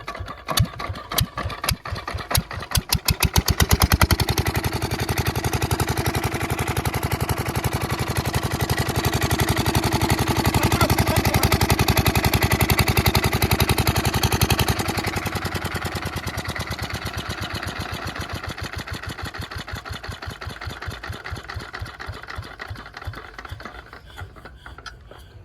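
8 hp single-cylinder diesel engine catching after hand-cranking: its beats speed up over the first few seconds and it runs loud and steady. About fifteen seconds in it drops in level and slowly winds down, the beats spacing out as it slows.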